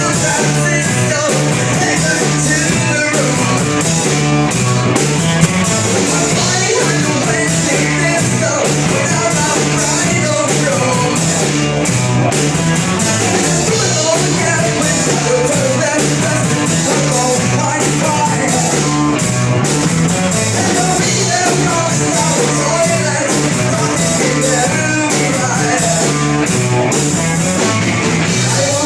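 Rock song played by a band: electric guitar, a bass line and drums at a steady driving beat, with a singing voice, loud and even throughout.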